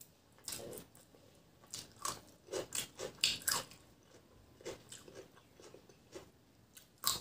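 Crisp bites and chewing of raw cucumber slices, close to the microphone. A quick run of crunches comes in the first few seconds, then quieter chewing, and one more sharp crunch near the end.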